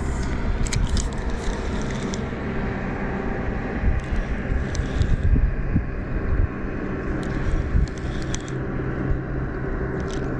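Boat motor running steadily under way, a low even engine drone, with a few light ticks and knocks over it.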